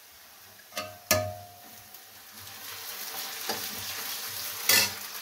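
A metal utensil clinks twice, ringing briefly, about a second in. Then onion starts sizzling as it fries in hot oil for a dal tadka, the hiss building, with a louder burst of sizzling near the end.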